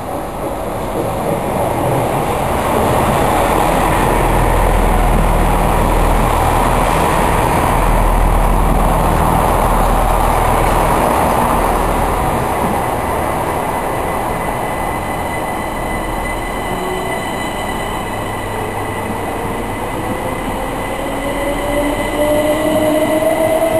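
Southern electric multiple unit moving through the station close by: a steady rumble of wheels on rail, with a rising electric traction whine over the last few seconds as the train gathers speed.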